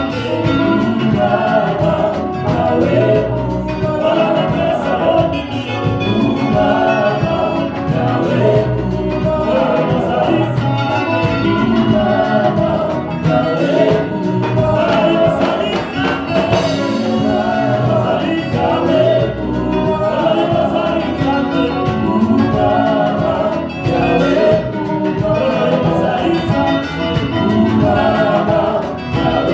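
Live gospel worship music: a group singing together over a band, with a steady beat.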